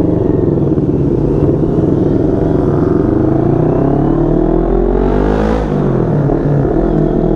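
CFMoto 400NK motorcycle's engine through an aftermarket SC-Project exhaust, accelerating away: the engine note rises, drops sharply at an upshift about five and a half seconds in, then rises again in the next gear.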